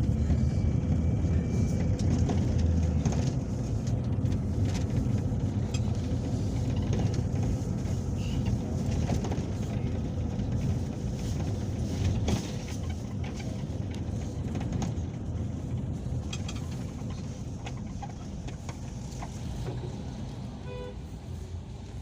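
Peugeot Boxer minibus heard from inside the passenger cabin while driving: steady low engine and road rumble with small rattles and clicks. It drops in loudness about halfway through and keeps easing toward the end.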